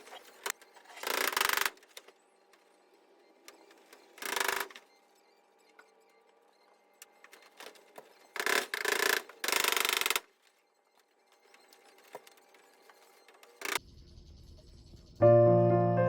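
Five short bursts of noise, each about half a second, separated by quiet over a faint steady hum, then a sharp click; piano background music begins near the end.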